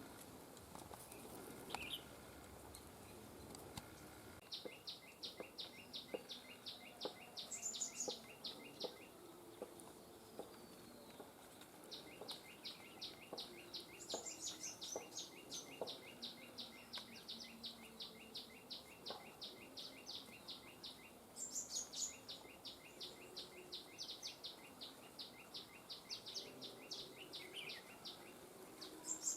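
Outdoor birdsong: long series of fast, evenly repeated high chip notes, about four or five a second, each series opening with a short high falling whistle. The series start about four seconds in and run on with brief breaks.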